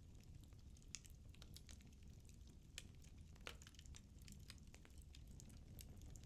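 Firewood burning in a fireplace: soft, irregular crackles and pops over a low rumble of the flames, with one sharper pop about halfway through.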